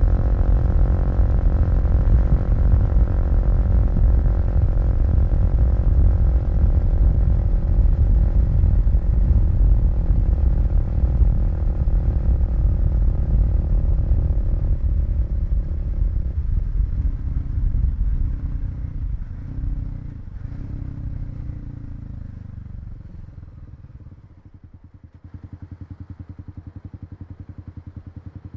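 Kawasaki KLX250 single-cylinder four-stroke motorcycle engine running steadily under way, then slowing as the rider rolls off, and settling to an even, pulsing idle near the end.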